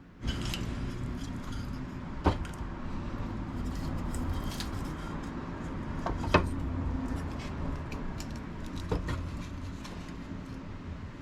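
Fire burning in a small camp stove: a steady low rushing with scattered crackles and a few sharp pops.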